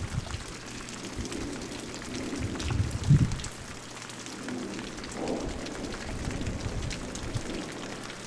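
Steady rain falling, individual drops ticking against the noise, with a brief low rumble about three seconds in.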